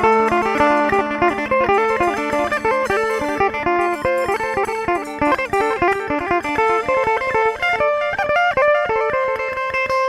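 Instrumental music: an amplified plucked-string instrument plays a fast run of short notes over a steady held drone note.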